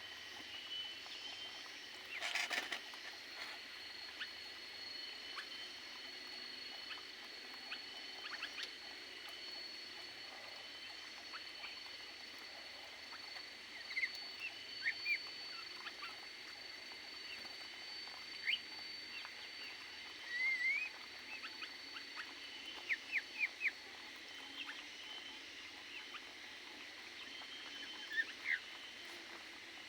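Small aviary birds giving short, high chirps now and then, with a quick run of four notes past the middle. A brief knock about two seconds in, over a faint steady high tone.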